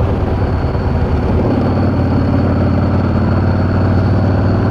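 Yamaha V-Star 650's V-twin engine running under way on the road. The note wavers for about the first second and a half, then holds a steady pitch.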